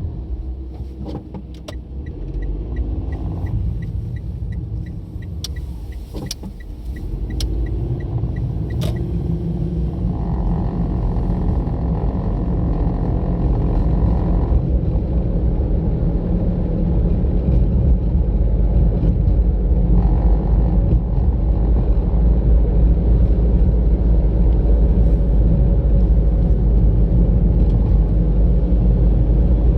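Car driving on a road: steady engine and tyre rumble that drops off as it slows in the first few seconds, with a light regular ticking about three times a second, then builds steadily as the car speeds up.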